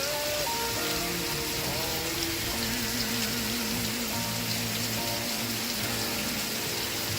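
Steady rain noise with music mixed in faintly underneath: a slow melody line with a wavering pitch.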